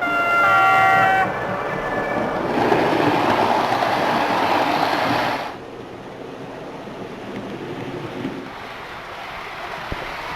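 A train horn sounds a short chord, then a loud rushing train noise follows for about three seconds and drops to a quieter steady running sound.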